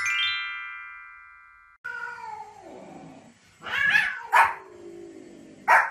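A short chiming jingle with pitches stepping downward, then a cat's drawn-out meow falling in pitch, followed by a small white spitz-type dog barking three times in short, loud yaps.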